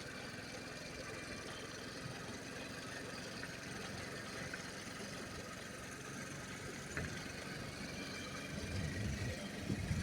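Motorbike engine running steadily at idle, with a few heavier low rumbles near the end.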